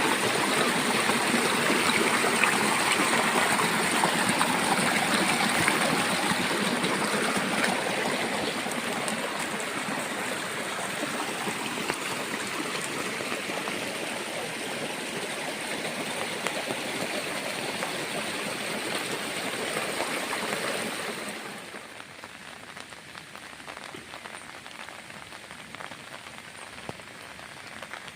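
Rain falling, a dense steady hiss that eases slightly over the first ten seconds or so. About three-quarters of the way through it drops suddenly to quieter rain, with separate drops pattering.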